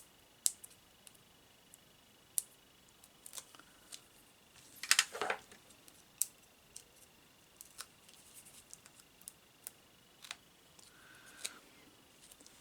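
Small clicks and taps of card and paper-craft supplies being handled on a work surface, with a short crackling burst about five seconds in.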